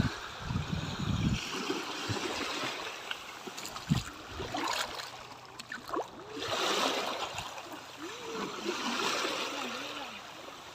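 Water splashing and sloshing around a kayak, coming in repeated swells, with faint voices in the background.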